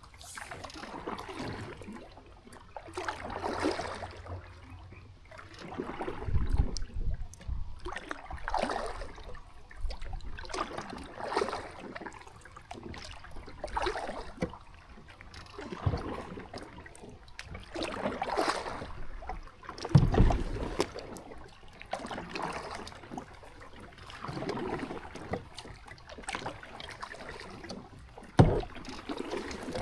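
Kayak paddle blades dipping and pulling through river water in a steady rhythm, a splash about every one and a half to two seconds. A few low thumps stand out, loudest about twenty seconds in and again near the end.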